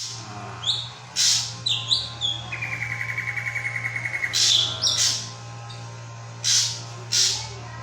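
Drongo song: clear whistled notes and pitch glides, a fast trill of about ten notes a second, and several short harsh rasping calls. A steady low hum runs underneath.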